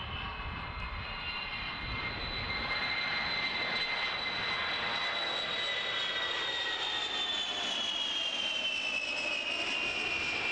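NATO E-3A Sentry AWACS, a four-engine Boeing 707-based jet, making a slow low pass with its wheels and flaps down. Its engine whine grows louder in the first couple of seconds, then slides steadily lower in pitch as the aircraft goes by.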